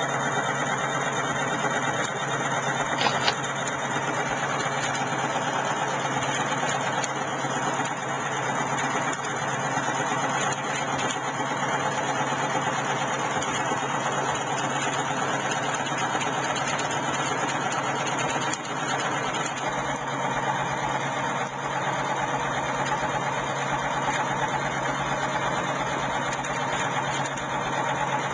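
Homemade coil-driven electric motor with a rotor magnet running steadily, a continuous machine hum, with one sharp click about three seconds in.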